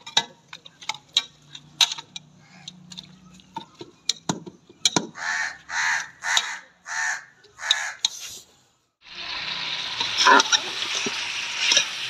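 Metal ladle scraping and clinking against an aluminium pressure cooker as chicken and potatoes are stirred. Midway come six short harsh bursts about half a second apart. About nine seconds in, steady sizzling of the meat frying takes over, with stirring strokes through it; this is the loudest part.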